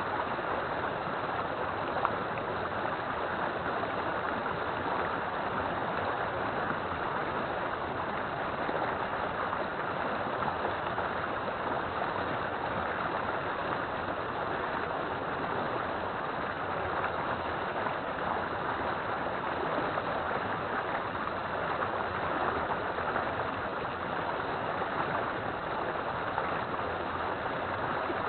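River water flowing in a steady, even rush, with one brief tick about two seconds in.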